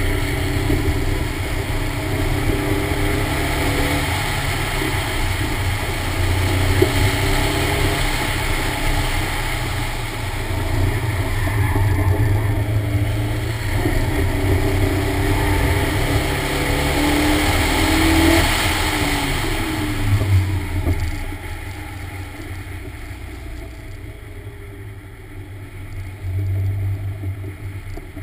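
Toyota AE86 Corolla's 1.8-litre 7A-GE stroker four-cylinder revving hard up and down under load, its note rising and falling repeatedly. About 20 seconds in the revs fall away and the engine goes much quieter.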